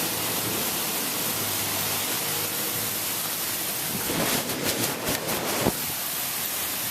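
Steady hiss of heavy thunderstorm rain, with a short run of sharp knocks and clicks about four to six seconds in.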